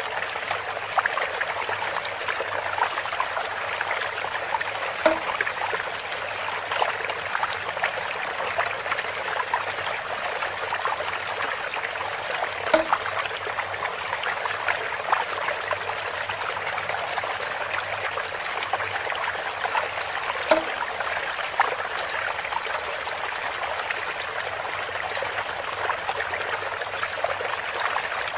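Water trickling and splashing steadily through a bamboo spout. A short knock with a brief pitched ring recurs about every eight seconds.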